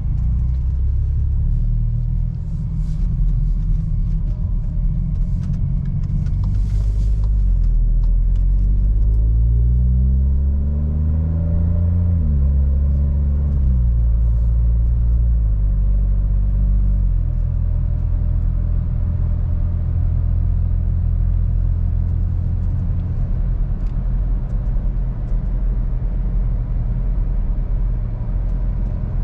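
Seat Ibiza's 1.0 TSI three-cylinder turbo engine, fitted with a Friedrich sport exhaust, driving. The engine note rises as it accelerates about ten seconds in, drops in steps through gear changes, then settles into a steady cruise.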